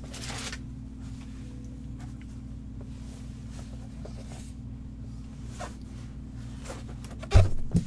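A steady low hum with faint rustles and clicks of handling. Two sharp knocks come near the end.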